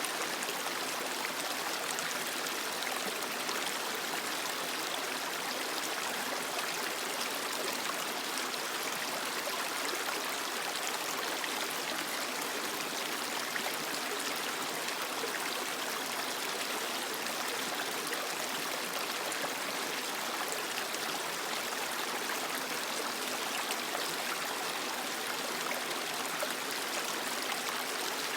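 Creek water flowing and splashing over rocks: a steady, even rush with fine trickling detail and little low rumble.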